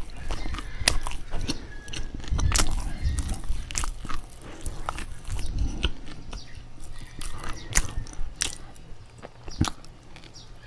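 Close-miked chewing of bread: irregular sharp mouth clicks and smacks, with a fresh bite near the end.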